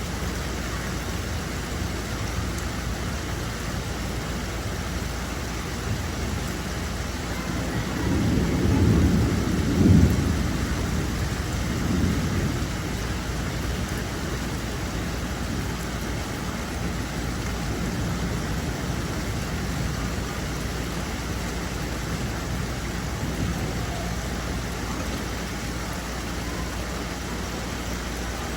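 Steady rain falling, with a low rumble of thunder that builds about eight seconds in and peaks around ten seconds, and a shorter rumble a couple of seconds later.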